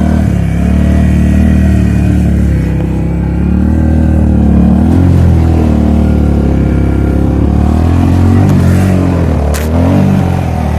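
Suzuki King Quad ATV's single-cylinder four-stroke engine under load, its revs rising and falling over and over as it is ridden through snow. There is one sharp knock near the end.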